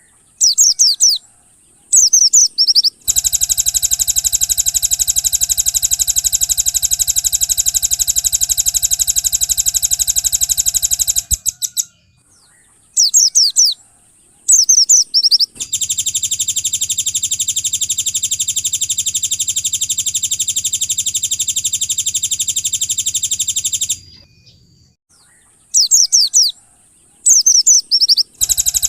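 Bird-training recording of Oriental white-eye (pleci) song: short bursts of quick, high chirps that sweep up and down alternate with long, rapid, buzzing trills of about eight seconds each, and the sequence repeats in a loop.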